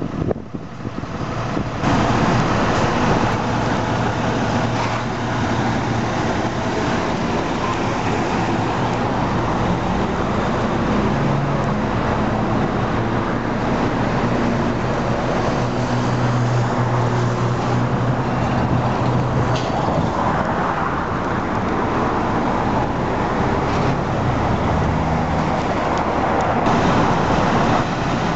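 A motor vehicle engine running steadily, with low engine tones over road traffic noise.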